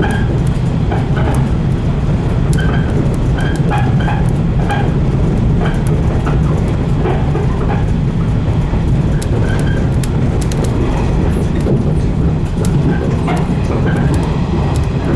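115 series electric train running at speed, heard from the cab: a steady low rumble with scattered short clicks over it.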